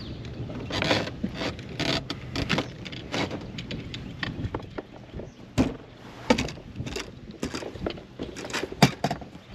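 Irregular clatter of knocks, clicks and rattles from gear being handled aboard a bass fishing boat, with one sharp loud knock near the end.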